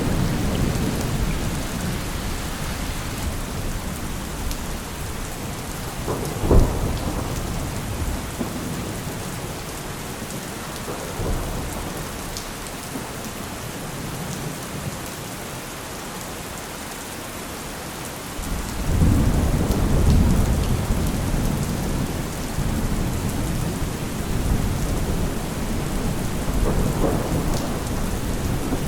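Steady rain with thunder: a sharp crack about six and a half seconds in, a smaller rumble a few seconds later, then a long low roll of thunder that starts suddenly past the middle and rumbles on for several seconds.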